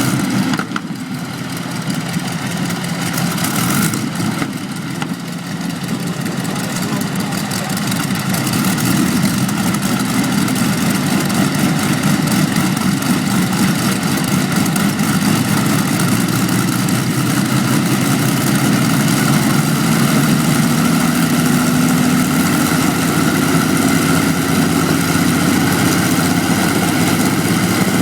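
Aeroplane engine running steadily, getting louder over the first several seconds and rising a little in pitch later on.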